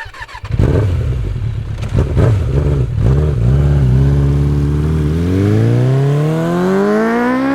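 A vehicle engine running unevenly at first, then holding a steady pitch before accelerating, its pitch rising steadily through the last two and a half seconds.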